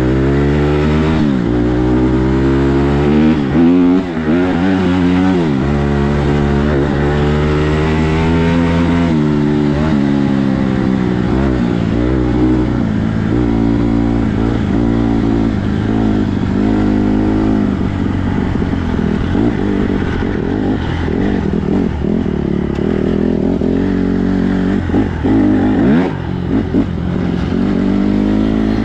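Dirt bike engine under riding load, revving up and dropping back over and over as the rider works the throttle and gears, its pitch climbing and falling in repeated sweeps. The sound briefly dips a few times near the end.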